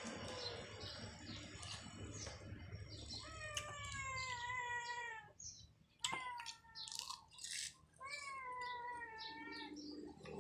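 An animal calling three times in long, drawn-out cries, each falling slightly in pitch, over faint ticking.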